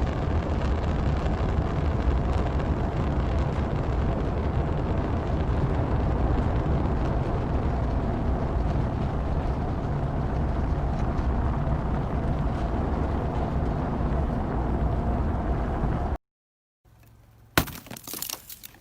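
Rocket engine noise at launch: a steady, dense rumble with a heavy low end and a crackle, which cuts off suddenly about 16 seconds in. A few faint clicks follow near the end.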